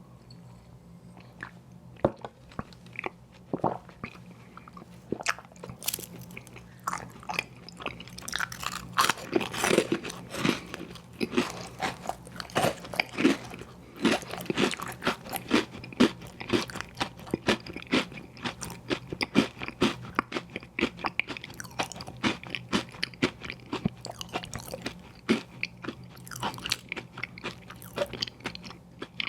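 Close-miked biting and chewing of ice cream sandwiches: wet smacking with many sharp crunches, starting about two seconds in and densest in the middle. A faint steady low hum runs underneath.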